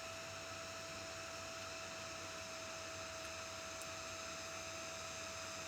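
Steady electrical hum with a constant high whine and hiss throughout, with no distinct events.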